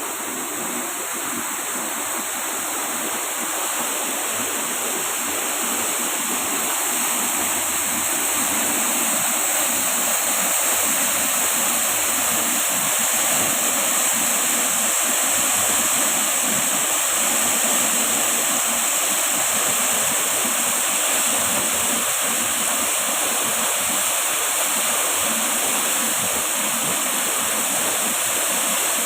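Waterfall: the steady, unbroken rush of falling water, a constant roar of white noise without any pauses.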